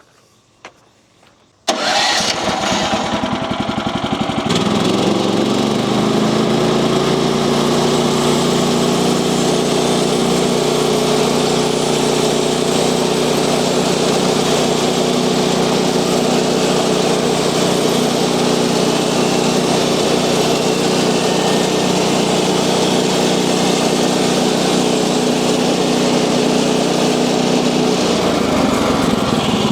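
Gas engine of a bandsaw sawmill starting about two seconds in, then settling after a few seconds to a steady running speed.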